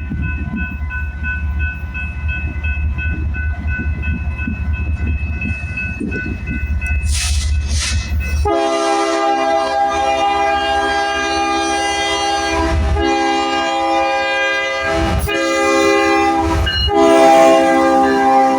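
Diesel freight locomotive rumbling by with a bell ringing steadily. About halfway in, the lead BNSF GE ES44DC locomotive's air horn sounds in four blasts, long, long, short, long, the grade-crossing signal.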